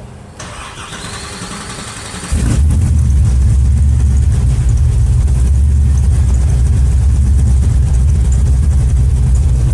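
AK Cobra replica's 7.0-litre LS7 V8 being started: the starter whirs for about two seconds, then the engine catches suddenly and settles into a loud, steady idle.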